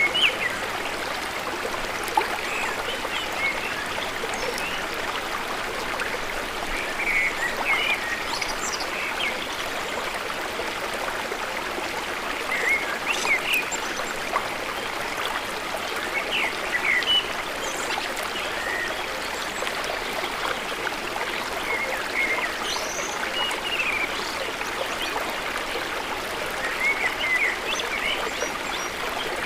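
Water flowing steadily in a stream, with short high chirps or gurgles scattered through it every second or two.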